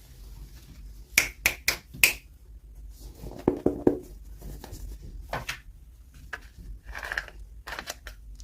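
Plastic toy packaging and small doll pieces being handled: four sharp clicks in quick succession, a short rustle a little later, then a few scattered clicks.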